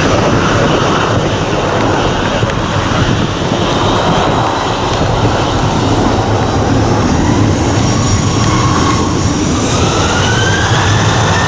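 Jet airliner engines running loud and steady, with a whining tone that rises in pitch near the end.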